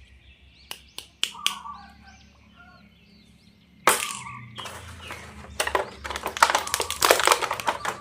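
A few sharp plastic clicks with faint chirpy squeaks, then about four seconds in a sudden burst of crinkling and crackling as plastic toy packaging is torn open and handled.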